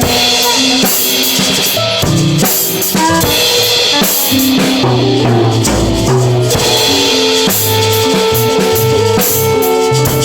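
Live improvised band music: a drum kit playing with cymbals, under a moving low bass line and held pitched notes from other instruments.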